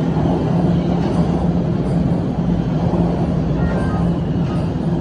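Steady rumble and low hum of a TTC Line 1 subway train in the station, with a few faint short squeals a little before four seconds in.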